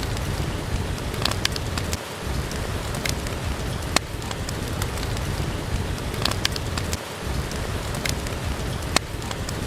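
Steady rain with a wood fire crackling, a sharp pop every second or two over the even hiss and low rumble of the rain.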